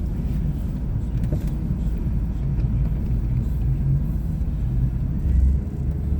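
Chevrolet Suburban on street tires driving through about six inches of snow in four-wheel drive: a steady low rumble of engine and tyres heard from inside the cabin, swelling briefly about five seconds in.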